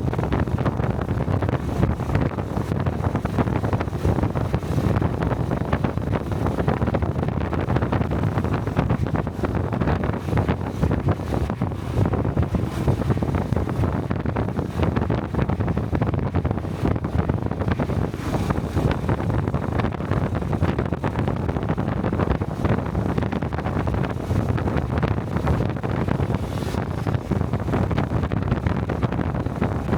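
Steady wind buffeting on a helmet-mounted camera microphone while riding a Honda 125 cc single-cylinder Cub motorcycle at speed, mixed with the bike's engine and exhaust running steadily.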